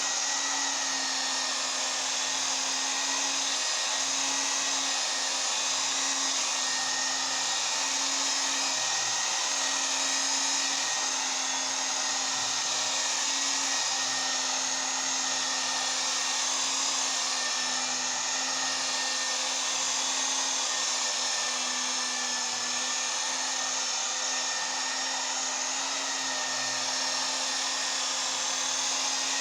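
Electric rotary buffer running steadily at low speed, its pad working polishing compound into freshly wet-sanded automotive clear coat: a continuous motor hum and whir that wavers slightly in pitch as the pad is worked over the panel.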